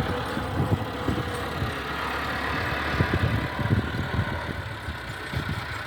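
Tractor engine running at a steady idle.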